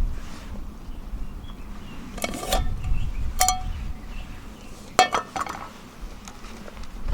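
Metal cooking utensils and cookware clinking: a few sharp clinks with a short ring, about two, three and a half, and five seconds in.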